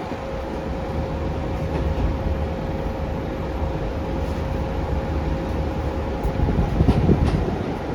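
Onboard ride noise of a Scania K360UA articulated city bus: a steady low rumble from the Scania DC9 engine and the road, with a thin steady whine that stops about two-thirds of the way through. Near the end the rumble grows louder, with a few sharp rattles or knocks.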